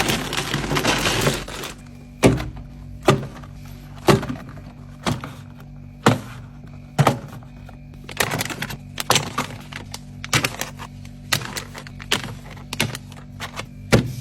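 Groceries being placed one by one into a mini fridge: a noisy rustle of packaging at the start, then sharp knocks of containers set down on the shelves, about one a second, coming quicker in the middle. A steady low hum runs under the knocks.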